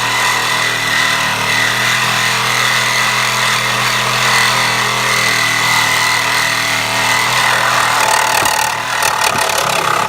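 A power tool running hard against metal, cutting at a seized, fused truck door hinge pin; it runs steadily and cuts off abruptly at the end.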